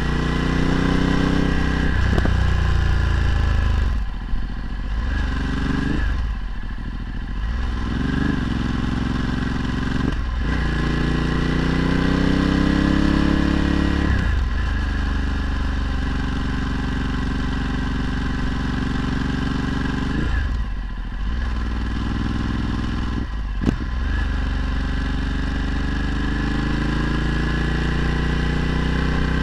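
Ducati Multistrada 1260's L-twin engine running through a Termignoni exhaust while riding. Its note climbs and falls over and over as the revs change, with several sharp drops along the way.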